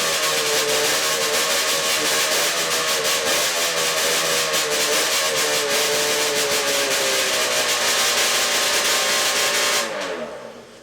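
1979 Ski-Doo Blizzard 440 snowmobile's two-stroke twin engine running at a steady speed with a slightly wavering pitch. About ten seconds in it is shut off, its pitch falling as it winds down to silence.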